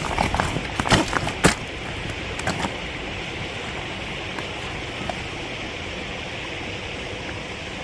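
Steady rushing noise, with a few sharp knocks or clicks in the first three seconds.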